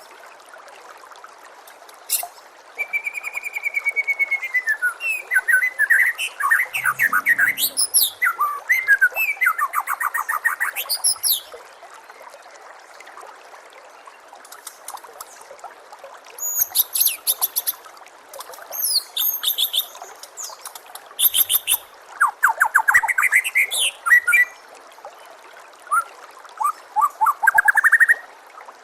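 White-rumped shama (murai batu) singing: a run of rapid trills, rising sweeps and high chatter for about ten seconds, then a pause and several shorter bursts. Steady trickling water runs under it throughout.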